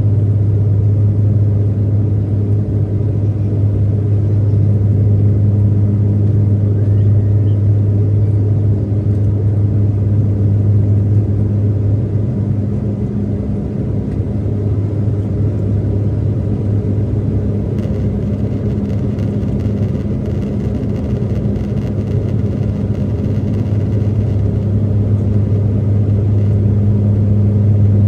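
Airliner engines droning steadily, heard from inside the passenger cabin as a loud, even low hum with a fainter higher tone above it.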